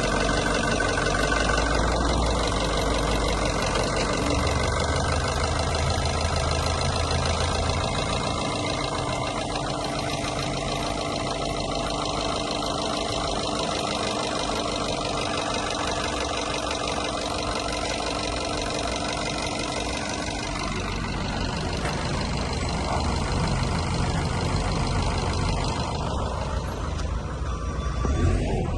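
Renault F4R 2.0-litre four-cylinder petrol engine running steadily at idle; its note shifts slightly about twenty seconds in.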